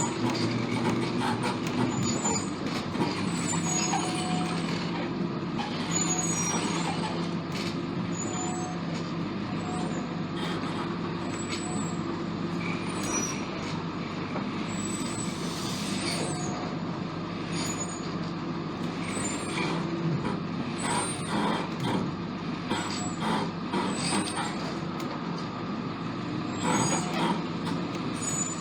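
AmTran RE school bus's International T444E V8 diesel idling steadily, with scattered light clicks and brief high chirps over it.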